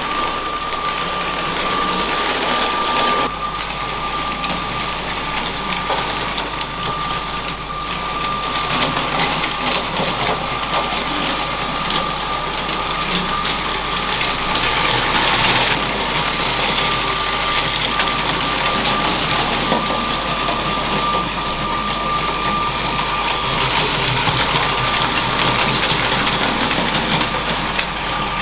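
Motorised LEGO train running on plastic track: a steady, high electric-motor whine over the noise of wheels and gears, with scattered light clicks.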